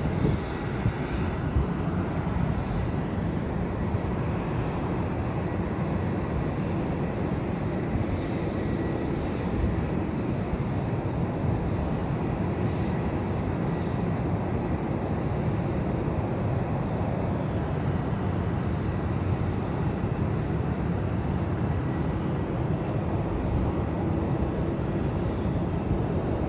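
Steady low rumble of jet aircraft engines, with a faint high whine.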